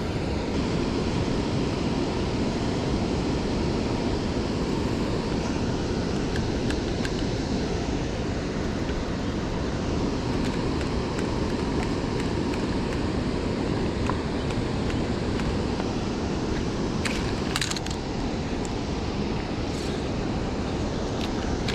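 Steady rushing of water pouring over a river spillway, a loud even roar with no let-up. A few faint clicks sound near the end.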